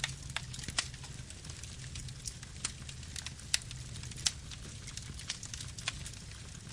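Campfire burning, crackling with irregular sharp pops over a low steady rumble.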